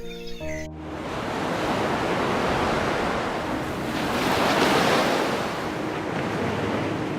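A loud, steady rushing noise with no clear tone, swelling to its loudest about two-thirds of the way through; music cuts off just before it begins.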